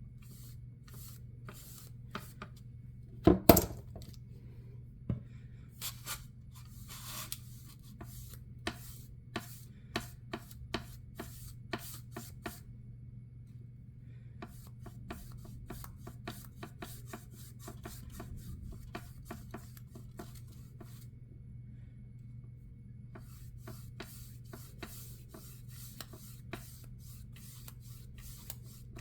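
Irregular light taps and clicks of hands working on a hard object, with one loud knock about three seconds in, over a steady low hum.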